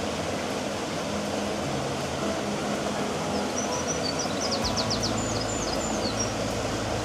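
Steady outdoor rushing noise with a low hum, joined from about halfway through by a small songbird's quick, high chirps.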